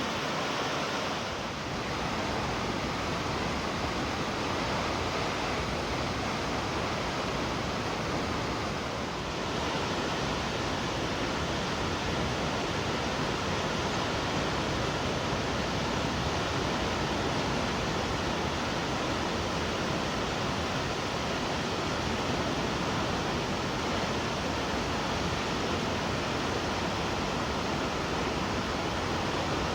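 Shomyo Falls, a 350-metre waterfall, rushing steadily as falling water: an even, unbroken noise spread across high and low pitches.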